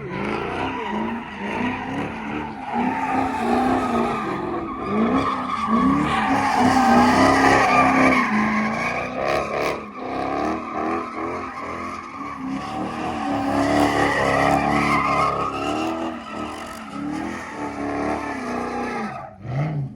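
Car engine revving hard again and again, with tyres squealing and skidding, as in a burnout or donuts. The sound cuts off abruptly near the end.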